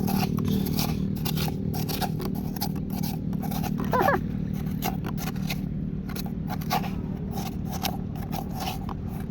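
Irregular crunching clicks and scrapes over a steady low hum, with one short vocal sound about four seconds in.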